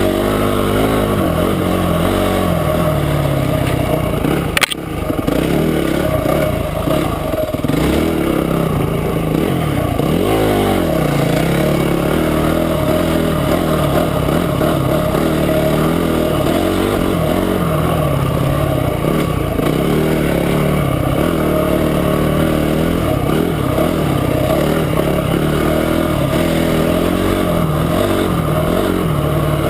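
Motorcycle engine running under way, its pitch rising and falling as the throttle opens and closes, with a brief sharp click about four and a half seconds in.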